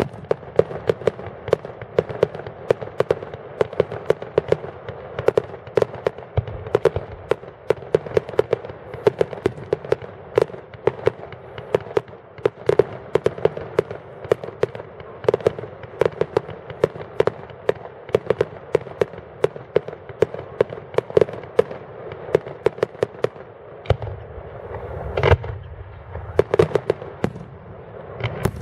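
Fireworks going off in a rapid, steady stream of sharp bangs and crackles, several a second, with a few louder, deeper booms near the end.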